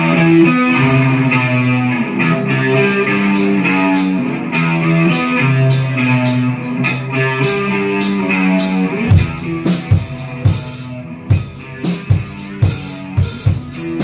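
Live rock band playing a song's instrumental intro: held electric guitar chords, with regular cymbal ticks joining a few seconds in and the full drum kit coming in with a steady beat about nine seconds in.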